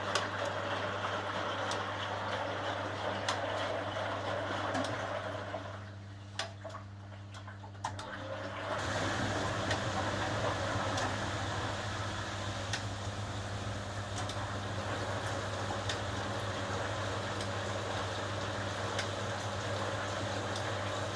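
1980 HUWA Automatic Standard 4 washing machine running mid-program: a steady hum under rushing, sloshing water. The water noise drops away about six seconds in and the machine starts up again, louder, about three seconds later.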